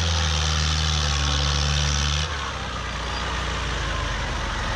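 Tractor diesel engine running steadily with a low, even hum. About two seconds in the sound cuts abruptly to a quieter, rougher engine hum.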